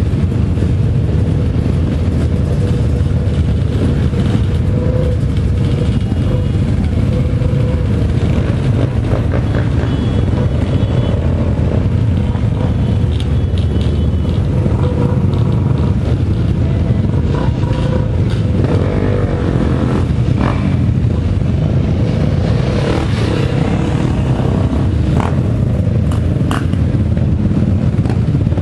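Engines of several off-road motorcycles and quads running as they leave the start area, a steady loud mix with a few brief higher engine notes and clicks on top.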